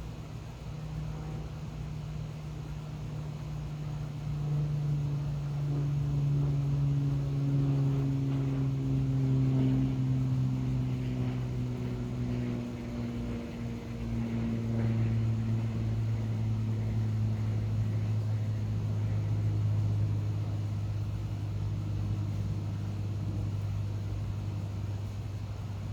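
A passing engine's low hum that slowly drops in pitch, swelling after a few seconds and easing off near the end.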